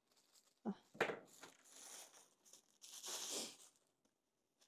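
Plastic packaging being crinkled and torn open: a few short rustles, then a longer tearing rustle about three seconds in.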